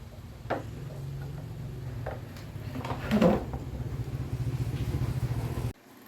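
Repaired electric fan running, a steady low motor hum with a few knocks over it, which cuts off abruptly shortly before the end.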